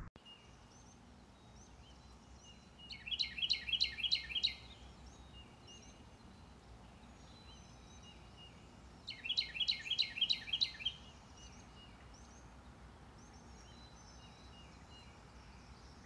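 A bird sings two bursts of quickly repeated sweeping notes, one about three seconds in and one about nine seconds in, each lasting about a second and a half. Fainter bird chirps sound between them.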